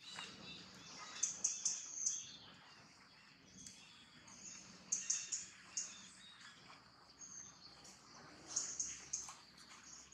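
Small birds chirping in short, high bursts, in three clusters, over faint outdoor ambience.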